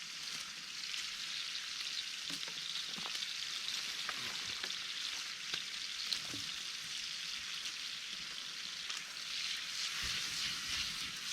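Bacon frying in a pan over a campfire: a steady sizzling hiss with a few scattered small pops.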